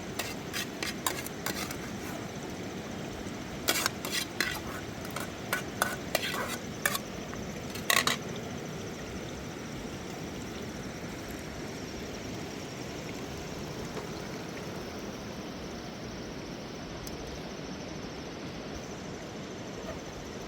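A metal utensil knocking and clinking against a cooking pot, a quick run of sharp clicks over the first eight seconds or so, then stopping. Under it runs a steady, even hiss.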